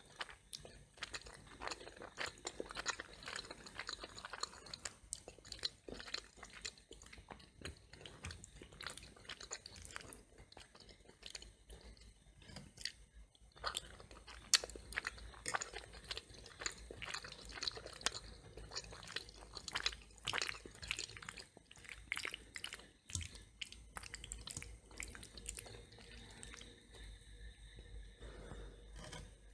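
A person chewing food close to the microphone, with crisp crunching and wet mouth clicks coming in irregular runs. One sharp loud click about halfway through.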